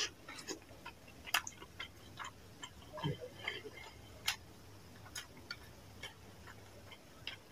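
Close-up mouth sounds of a person eating rice and fish curry by hand: irregular wet clicks and smacks of chewing, a few seconds apart to several a second.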